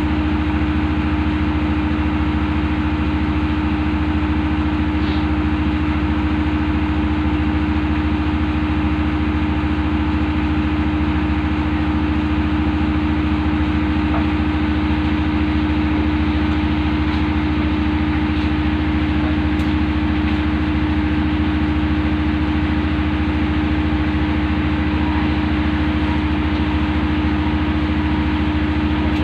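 A ship's engine machinery running steadily: an unchanging low drone with a constant hum.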